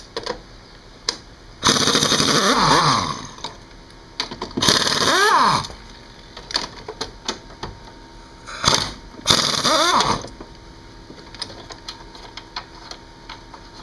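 Pneumatic wrench spinning out the 16mm bolts on top of the strut, in four bursts of about a second each, with the speed rising and falling within each burst, and small metallic clicks between them.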